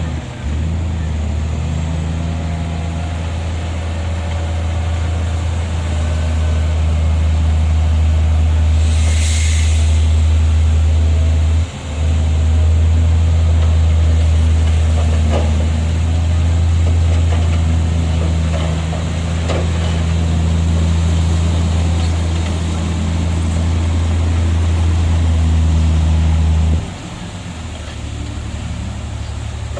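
Heavy diesel engine of earthmoving machinery running steadily under load, with a brief dip about twelve seconds in and an easing near the end. A short hiss about nine seconds in.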